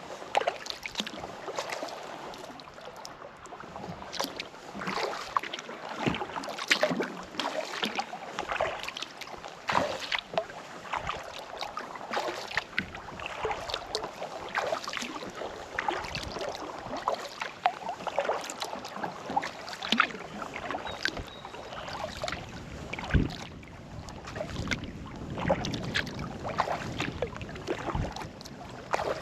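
Kayak paddle strokes in calm lake water: the blades dip and pull with a splash every second or two, with water dripping and trickling off the paddle between strokes.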